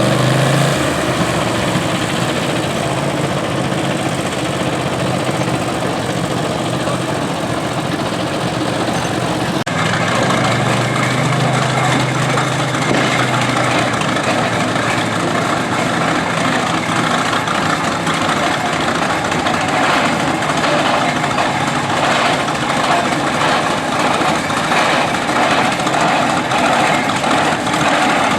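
Garden tractor engine running steadily under load, with an abrupt change in the sound about ten seconds in.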